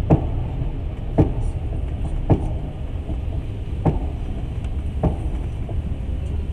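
Passenger train carriage in motion: a steady low rumble of the running gear, with a sharp clack from the wheels about once a second, five times.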